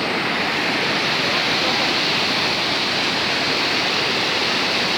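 Rushing water flowing fast, a loud, steady, even noise without pause.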